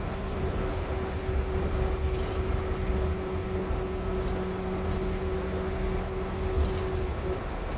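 Cabin sound of a Yurikamome rubber-tyred automated guideway train running: a steady low rumble with a steady electric motor hum that fades about seven seconds in.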